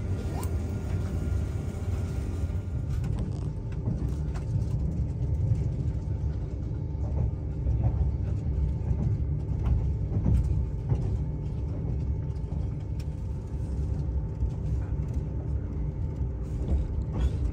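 Train running: a steady low rumble with a faint hum and a few light clicks.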